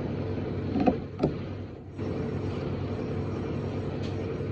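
Steady low machine-like hum, with two short, sharp sounds about a second in.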